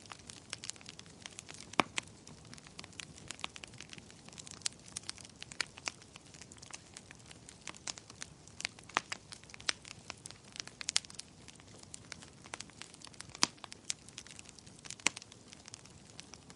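Wood fire crackling: irregular sharp pops and snaps over a faint steady hiss, a few louder pops standing out.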